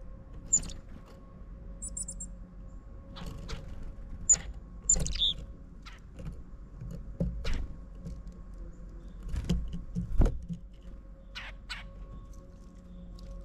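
Small songbirds giving scattered short, high chirps, including a quick run of four tiny notes about two seconds in. Several dull taps and knocks come between them, over a faint steady hum.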